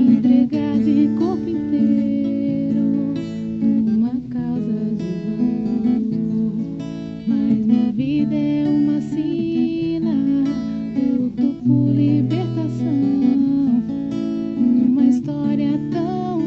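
Acoustic guitar (violão) plucked and strummed, playing a capoeira ladainha melody over sustained chords.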